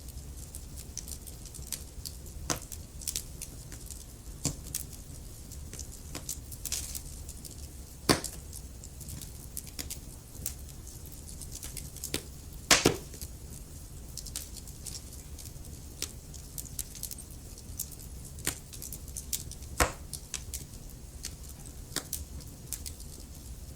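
Wood fire crackling in a fireplace: irregular sharp pops and snaps, the two loudest about 8 and 13 seconds in, over a low steady rumble.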